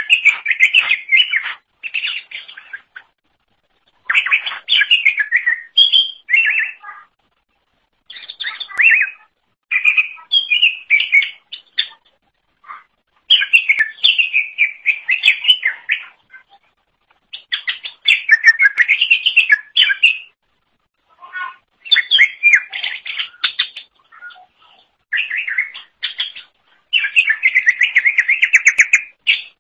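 Green leafbird (cucak ijo) singing: rapid, varied phrases of chirps and whistles in bursts of one to three seconds, separated by short pauses.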